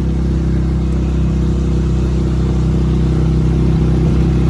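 Small outboard motor on an inflatable boat running steadily at a constant speed.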